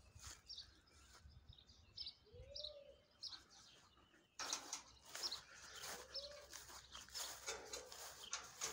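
Birds calling: short high chirps and a few low arching coos. About halfway through, a louder, rough noisy hiss comes in.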